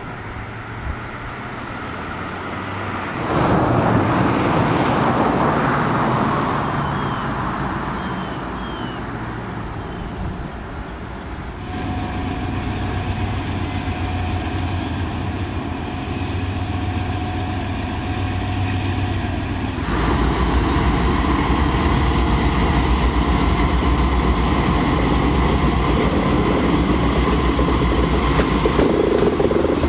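Freight train hauled by several diesel-electric locomotives approaching and passing close by, with engines running and wheels on the rails. The sound grows louder in steps and is heaviest in the last third, as the locomotives go past.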